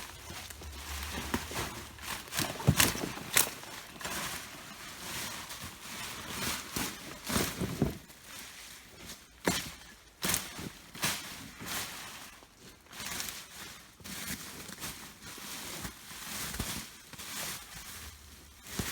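Digging and rummaging through loose soil while lifting sweet potatoes, with irregular scrapes, crunches and sharp clicks, a cluster of louder ones about three seconds in and again near the middle.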